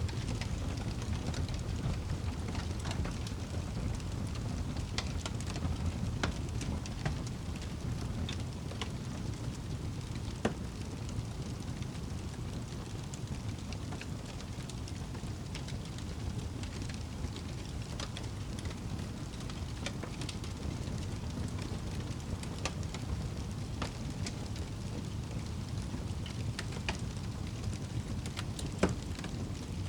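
Wood fire burning in a fireplace: a steady low rumble with scattered sharp crackles and pops, one louder pop near the end.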